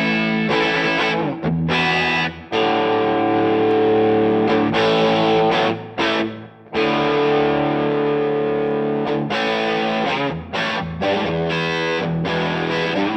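Electric guitar played through a DVII guitar amplifier with a distorted tone: chords let ring for a few seconds each with brief stops between them, turning to shorter, choppier chords near the end.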